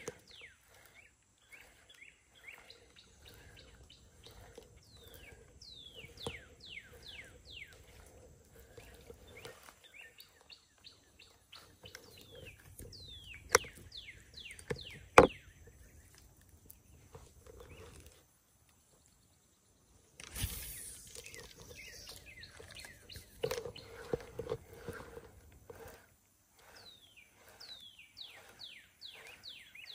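Songbirds calling, in runs of quick falling chirps that repeat every few seconds. Two sharp clicks about halfway through are the loudest sounds.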